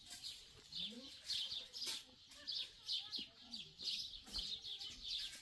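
Small birds chirping over and over in the trees, short high chirps repeating about two to three times a second. Faint low calls sound now and then underneath.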